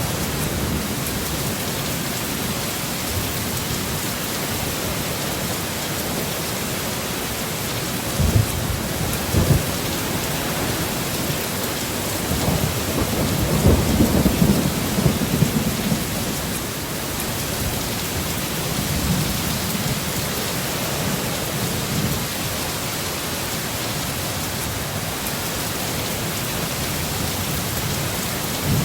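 Steady heavy rain in a thunderstorm, with low rolls of thunder swelling about eight seconds in and again, longer, from about twelve to sixteen seconds in.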